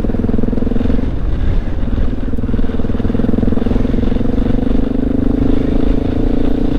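Honda XR650L's single-cylinder four-stroke engine running steadily under way on a loose gravel road. The engine note eases off briefly about a second in, then holds steady over a low rumble.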